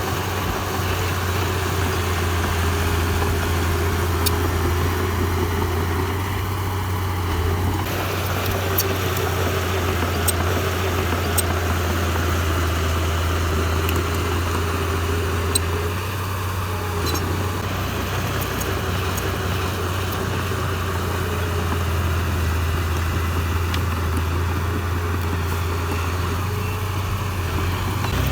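Heavy-equipment diesel engine running steadily, with a strong low hum and a steady mid-pitched drone that do not change much. A few faint sharp ticks come through on top.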